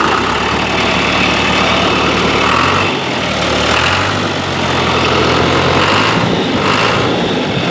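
John Deere tractor engine running steadily at idle, just after catching on the starter with starting ether in the intake and no choke.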